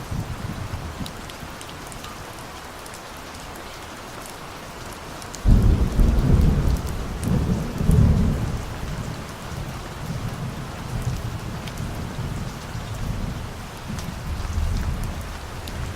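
Steady rain falling, with a thunderclap breaking in suddenly about a third of the way through. The deep rumble rolls on for several seconds and slowly dies away under the rain.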